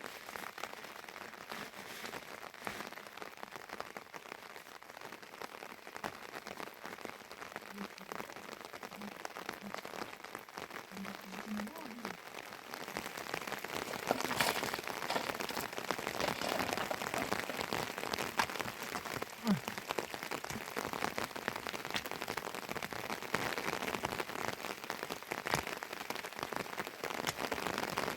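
Heavy rain falling steadily, a dense hiss of many individual drops ticking on a surface, growing louder about halfway through.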